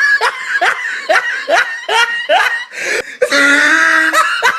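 A person laughing in a quick run of short rising hoots, about two to three a second, breaking into a long held note near the end.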